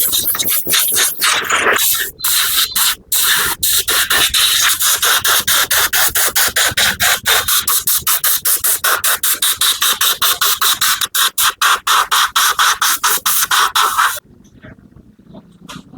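A loud hissing spray jet, chopped into quick pulses several times a second, cutting off suddenly near the end.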